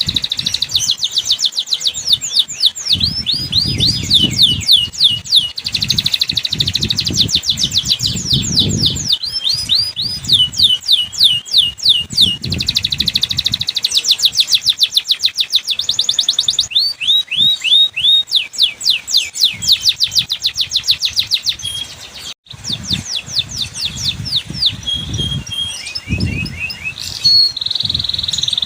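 Domestic canary singing a long, fast song of rapid trills and rolls, runs of quick repeated high notes that change from phrase to phrase, briefly cut off about two-thirds of the way through. It is lure song used to coax reluctant canaries into singing.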